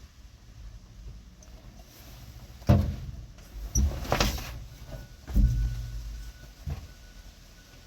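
A handful of knocks and thumps, about five spread over a few seconds, the first the loudest, with some low rumbling after them.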